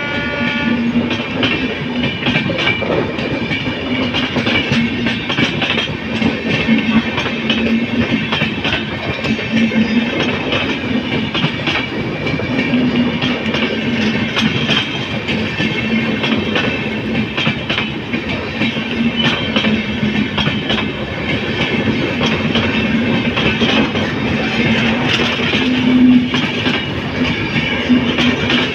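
Passenger coaches of an express train running past at speed: a steady wheel-on-rail rumble with frequent clicking as the wheels cross rail joints. A train horn, from the electric locomotive at the head of the train, sounds at the start and stops about a second in.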